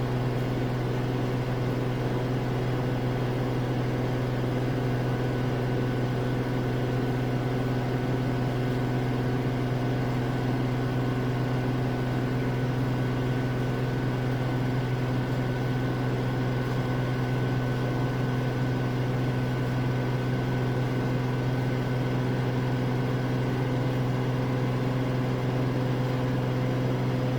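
Samsung AddWash front-loading washing machine in its high-speed final spin, the drum at about 1250 RPM and working up toward 1300. It gives a steady, pretty quiet hum.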